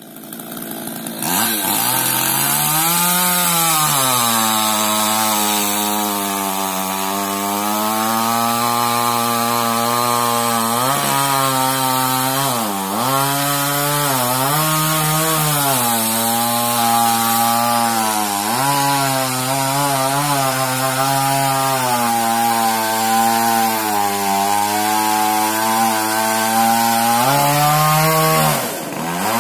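Two-stroke chainsaw cutting through a coconut palm trunk, running at high speed from about a second in. Its pitch sags and recovers again and again as the chain bites into the wood, with a brief dip near the end.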